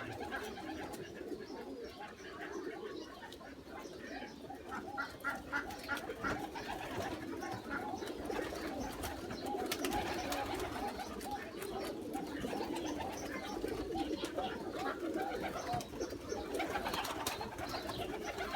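Many domestic pigeons cooing together, a steady overlapping chorus with scattered short clicks.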